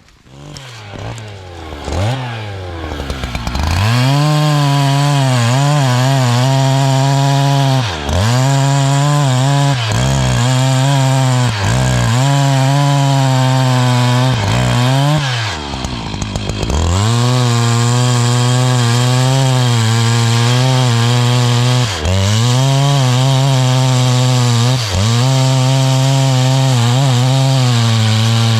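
Two-stroke chainsaw cutting wood: it revs up over the first few seconds, then runs at high revs, its pitch dropping briefly and recovering several times, with a longer dip about halfway through.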